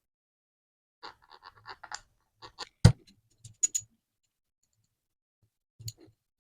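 Handling noises from a small bench vise being oiled and worked: a quick run of light clicks, then several sharp knocks, the loudest about three seconds in and one more near the end.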